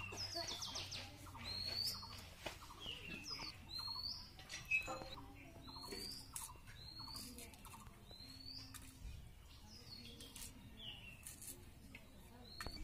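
A small bird chirping over and over, a short high note that hooks upward, about once a second. Faint clicks and scrapes of a small knife peeling onion skins come in between, one sharper click near the middle.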